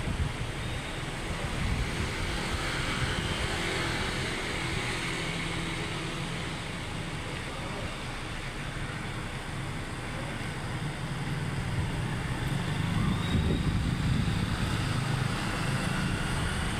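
Steady city road traffic noise: a continuous rumble and hiss of passing vehicles, growing louder for a few seconds about three quarters of the way through as vehicles pass close.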